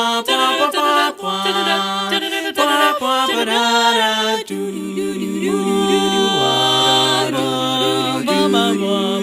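Vocal music: several voices singing in harmony over a held low note.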